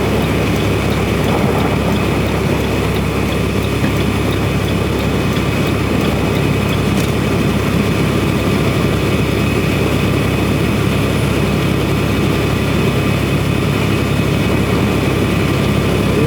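Steady drone of a semi truck's diesel engine and road noise heard from inside the cab while driving, with wind noise over it.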